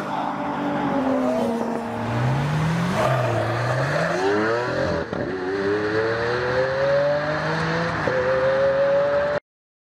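A car engine accelerating hard through the gears, its pitch climbing steadily and dropping back at each of a few gear changes, then cutting off abruptly near the end.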